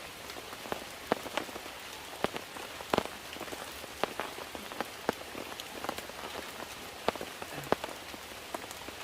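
Steady rain, with single heavier drops hitting close by at irregular intervals as sharp ticks.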